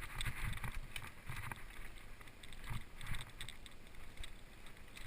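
Footsteps on a dry dirt trail, irregular crunches and thuds, with some wind on the microphone.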